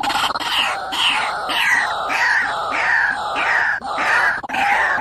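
White-breasted waterhen (ruak-ruak) calling: one falling note repeated again and again, a little under two a second.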